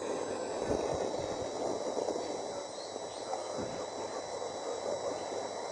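Water boiling in a kettle, a steady grainy bubbling hiss, with a faint steady high-pitched whine underneath.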